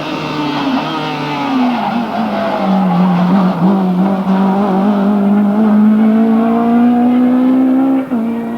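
Rally kit car's naturally aspirated four-cylinder engine under load: the note dips about a second and a half in, then climbs steadily as the car pulls through a gear, and drops sharply near the end at an upshift.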